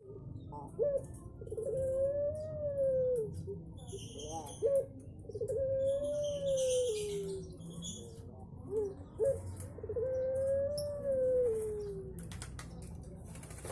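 Puter pelung (domestic Barbary dove) cooing: three long drawn-out coos about four seconds apart, each opened by a short note, rising slightly and then sliding down. Faint chirps of small birds are heard alongside.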